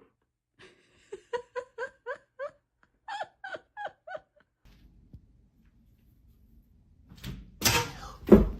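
A quick run of about ten short, high-pitched voice-like sounds, then two loud thumps near the end, about half a second apart.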